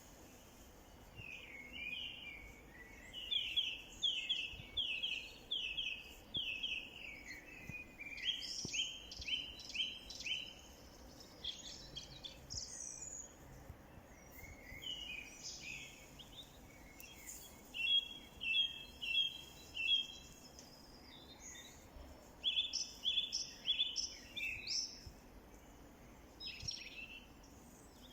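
Songbirds singing: phrases of quick, clear notes repeated in runs of four to six, with quieter chirps between, over a faint steady background hiss.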